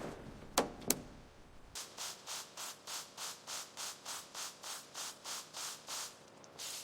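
Hand sanding in quick, even back-and-forth strokes, about four a second, after two sharp clicks in the first second.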